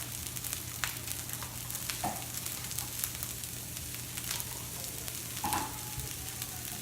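Fried rice with onions sizzling steadily on a hot grill, with a few light clicks of a cooking utensil.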